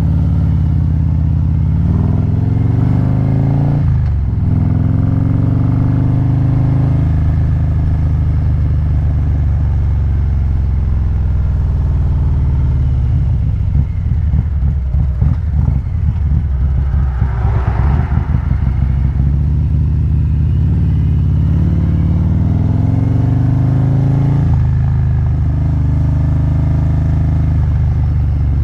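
2019 Harley-Davidson Street Glide CVO V-twin engine running through aftermarket headers and slip-on mufflers under way. Its pitch climbs and drops back at gear changes, first about four seconds in, then runs unevenly for a few seconds midway before pulling up again.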